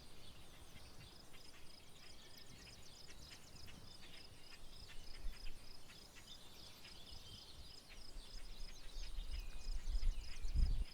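Outdoor wild bird song and calls over a steady, evenly repeated high chirping about four or five times a second. A low rumble builds about two-thirds of the way through and is loudest just before the end.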